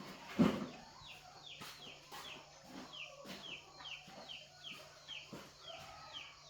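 A knock about half a second in, then a bird calling with a run of short, falling chirps, about two a second.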